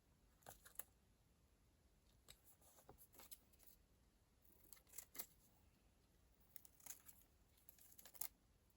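Faint, scattered clicks and crisp rustles of paper and stationery being handled, coming in several short clusters.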